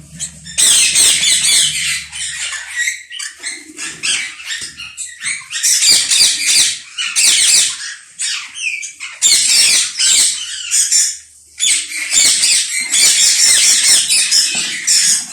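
A colony of Indian ringneck parakeets screeching, many harsh calls overlapping in loud clusters, with short lulls about four seconds in and again near eleven seconds.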